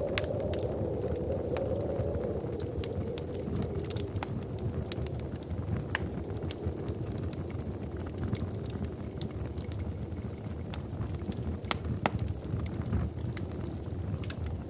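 Wood fire crackling in a fireplace: sharp pops and snaps at irregular intervals over a low, steady rumble.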